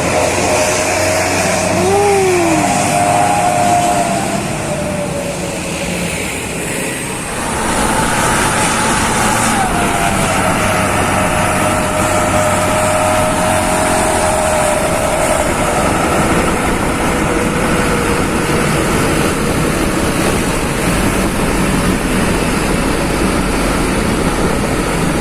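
Bus engine running loud through its aftermarket 'Serigala' exhaust as the bus pulls away, the pitch rising and falling briefly early on; about seven seconds in the low rumble grows stronger and holds steady.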